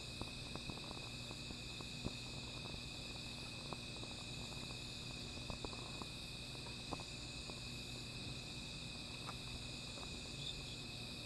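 A steady chorus of night insects, several high shrill trills held without a break, with a small fire crackling in occasional sharp pops.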